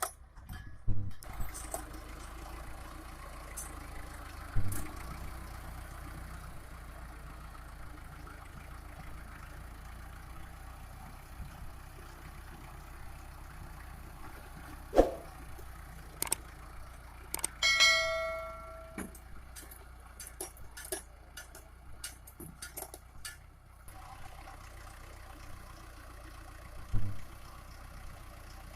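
Mahindra Arjun 555 DI tractor's four-cylinder diesel engine running steadily, with scattered clicks and knocks and a few louder thumps. A brief ringing tone sounds once about two thirds of the way through.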